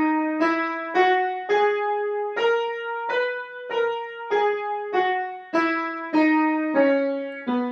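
Piano playing a B major scale, one note at a time at an even pace. It climbs one octave and comes back down to the low B.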